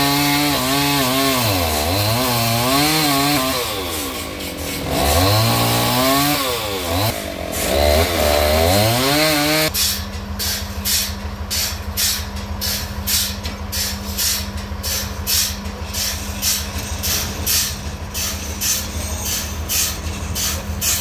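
Chainsaw engine running at high revs, its pitch rising and falling as it cuts through wood. About ten seconds in the sound changes abruptly to a steady lower hum with a regular tick about twice a second.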